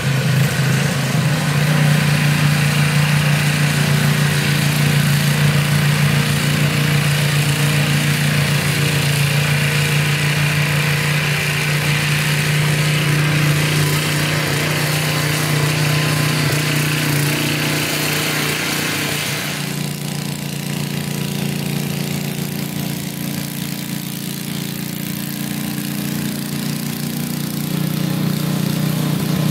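Toro 826 snowblower's 8 hp Briggs & Stratton engine running steadily while clearing snow, with a hissing rush above the engine that falls away about two-thirds of the way through.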